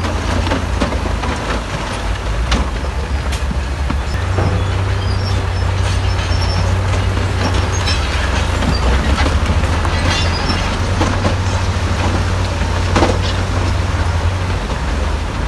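Diesel engine of heavy earthmoving machinery running with a steady low drone that rises slightly about four seconds in, under scattered clanks and knocks of metal and rock, one sharper knock near the end.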